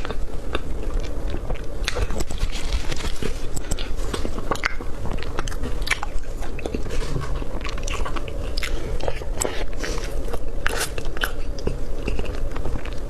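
Close-miked mouth sounds of a person eating cream roll cake: biting and chewing, with many small wet clicks in an irregular stream.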